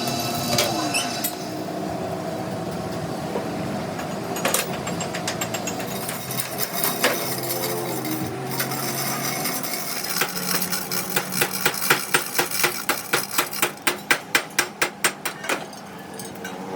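Hammer striking metal during work on a truck's trunnion shaft and axle housing. A few single blows come first, then a fast, even run of about three or four blows a second through the second half, over a steady machine hum.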